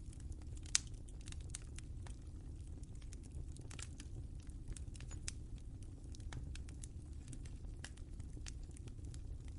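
Wood fire crackling in a fireplace: irregular sharp pops and snaps over a low steady rumble of the flames, with one louder pop about a second in.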